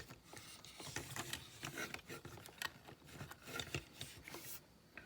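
Plastic parts of a Transformers Long Haul figure being rotated and handled: a run of small clicks and rubbing, stopping about four and a half seconds in.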